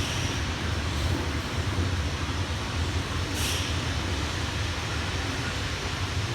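Kobe Electric Railway train running on its line: a steady low rumble of wheels and motors, with a short hiss about three and a half seconds in.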